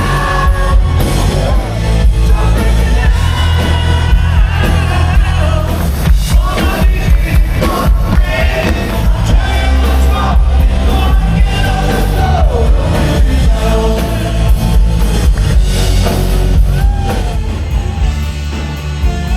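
Loud live yacht rock cover band playing through the PA, with a lead vocal singing over drums, bass and keyboards.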